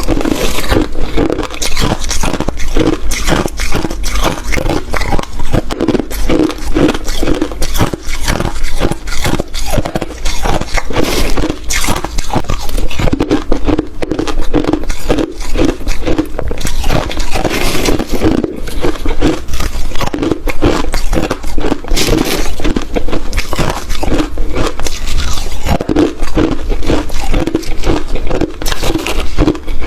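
Ice being bitten and chewed close to the microphone: a steady run of crunches and crackles that carries on without a break.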